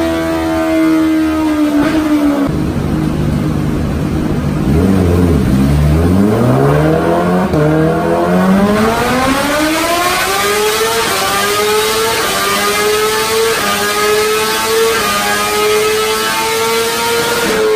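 Sport-motorcycle engine revving on a stand. The pitch sinks at first, drops to low revs, then climbs steadily to a high, steady note that is held for the last several seconds.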